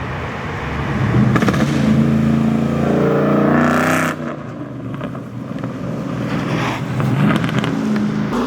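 A car engine revving up, its pitch rising for about two seconds, then dropping off abruptly about four seconds in, with engine noise carrying on after.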